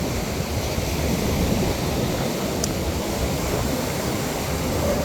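Wind buffeting the phone's microphone in a low rumble over the steady wash of ocean surf on the beach.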